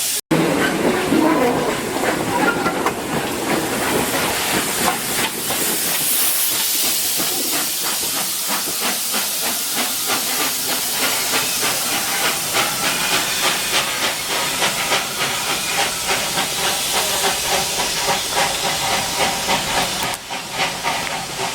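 Ol49 steam locomotive working under steam: a steady rapid beat of exhaust chuffs over a loud hiss of steam.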